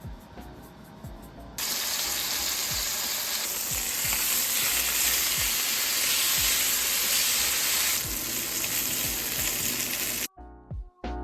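Food frying in a hot pan: a loud, steady sizzle that starts suddenly about a second and a half in, as food goes into the pan.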